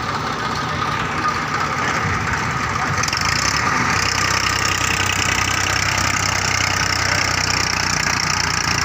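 Massey Ferguson 1035 DI tractor's three-cylinder diesel engine running steadily, growing a little louder about three to four seconds in.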